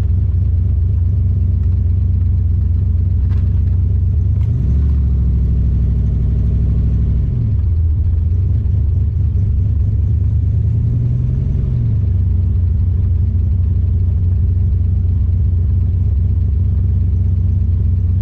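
Turbocharged 331 small-block Ford V8 in a Fox-body Mustang, heard from inside the cabin while driving slowly: a steady low engine note that rises about four seconds in, drops back a few seconds later, and rises and falls once more around ten seconds in.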